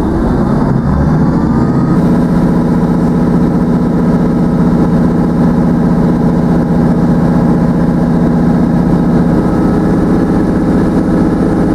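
Passenger train running, heard from inside the carriage: a loud, steady engine drone that steps up in pitch about two seconds in and then holds.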